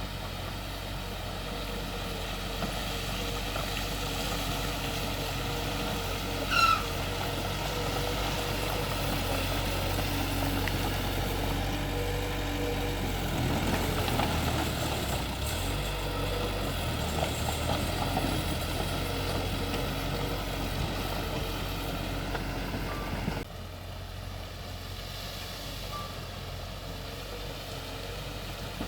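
Heavy diesel machinery, bulldozer and dump trucks, running steadily, with a brief high squeal about seven seconds in. The level drops abruptly near the end.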